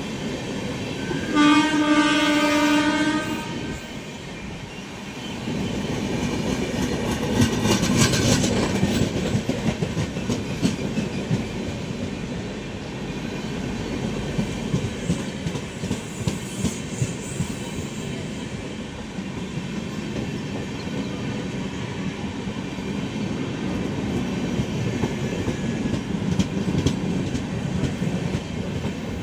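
Express train's horn sounding one blast of about two seconds, then the train passing at full speed: a steady rumble thick with the rapid clatter of wheels over the rail joints, starting about five seconds in.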